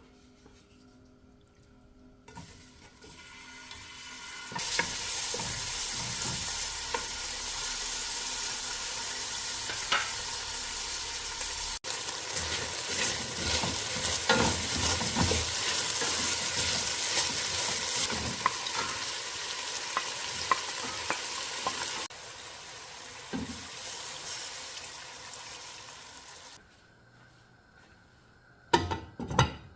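Food sizzling in a hot pan while being stirred, with the scrape and knock of the spoon against the pan. The sizzle rises in after a few seconds, eases off, then stops, and a couple of sharp knocks follow near the end.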